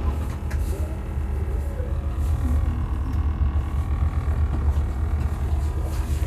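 Steady low rumble of a vehicle in motion, with faint wavering tones above it.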